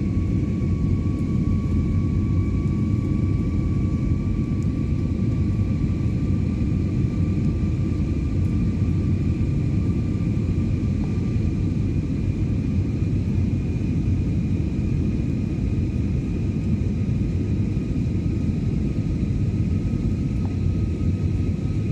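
Jet airliner cabin noise in flight: a steady low rumble of engines and airflow, with a thin whine in two high tones that slowly rises a little in pitch.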